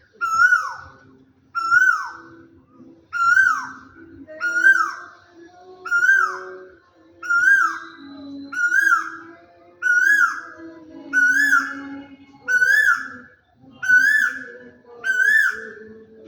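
Asian koel calling, about twelve loud whistled 'kuhu' calls in a steady series, roughly one every 1.3 seconds, each a short note that rises and falls at an even pitch.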